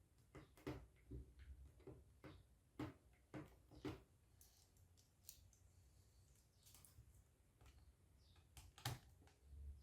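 Faint, irregular clicks and taps of small tools and parts being handled while a laptop's hard drive is detached and unscrewed: a cluster of clicks in the first few seconds, a quieter stretch, then one sharper click near the end.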